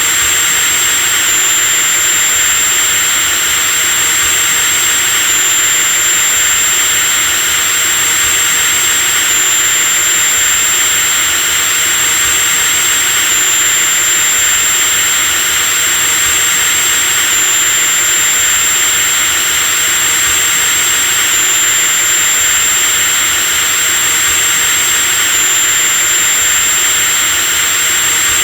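Electric drill motor running continuously at a constant speed: a steady high whine over an even hiss, with no pauses or changes in speed.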